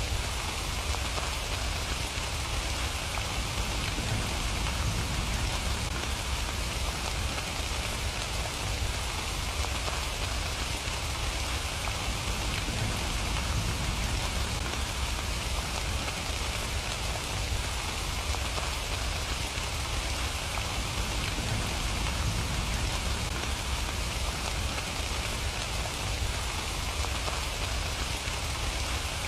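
Rain falling steadily, an even hiss with a low rumble underneath and no breaks or sudden sounds.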